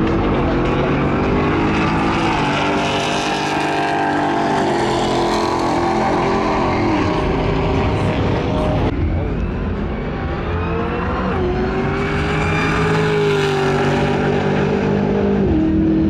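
Several truck engines running and revving, their pitch rising, falling and then holding steady, with an abrupt change about nine seconds in.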